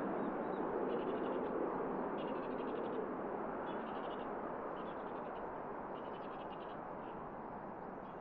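Jet aircraft noise, a broad steady rush slowly fading away, with a bird's short rapid chattering calls repeated about six times over it.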